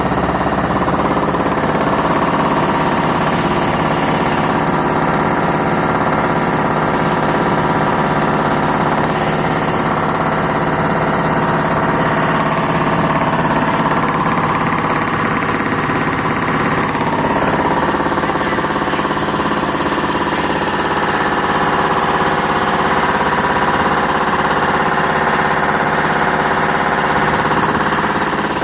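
A small boat's motor running steadily at constant speed.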